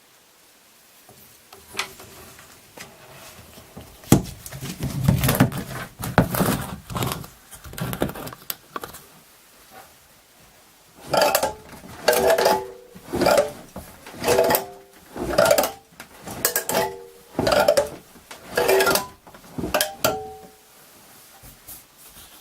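Hobie Outback kayak rudder being worked back and forth, giving a repeated metallic clank and ring from the spring inside it, about once a second in the second half. It is a noise that has grown louder lately, which the owner traces to the rudder's internal spring and is unsure is harmless.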